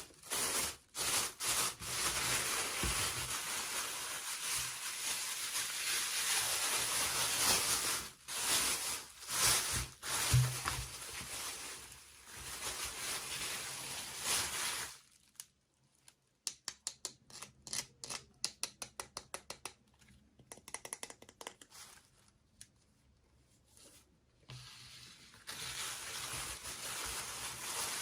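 Toy packaging being handled: rustling and rubbing for about fifteen seconds, then a run of quick small clicks at about three a second, then rustling again near the end.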